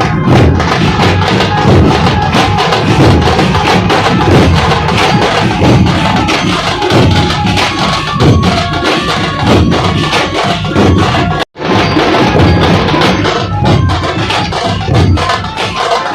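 Dhol-tasha troupe playing a fast, continuous rhythm on massed dhol drums, with sharp tasha strokes over them. The sound drops out for an instant about eleven seconds in, then picks up again.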